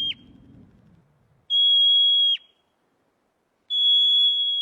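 Prairie dog calling: a high, steady whistle of just under a second that ends in a quick drop in pitch, heard repeatedly. The tail of one ends at the start, and two more follow about two seconds apart.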